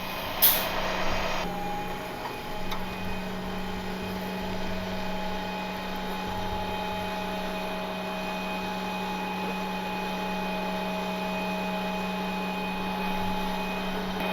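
Rollback tow truck's hydraulic system and winch running with a steady whine while pulling a dump truck up onto the bed. The whine sets in about a second and a half in, after a short sharp burst of sound.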